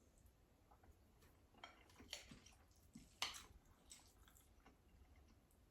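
Faint chewing of food close to the microphone, with a few soft mouth clicks and smacks, the clearest a little over three seconds in.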